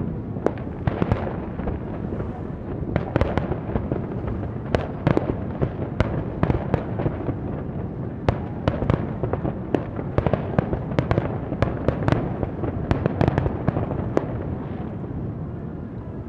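Fireworks display: many sharp bangs in quick succession over a continuous low rumble of bursts, thinning out near the end.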